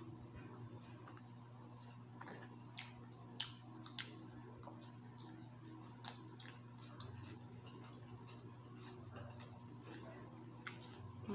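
Close-up chewing and mouth sounds of a person eating: a scatter of sharp wet smacks and clicks, the loudest about three and four seconds in, over a faint steady hum.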